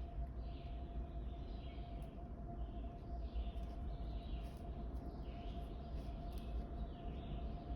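Birds calling outdoors, short high chirping calls repeating about every half second to second, over a steady faint hum and a constant low rumble.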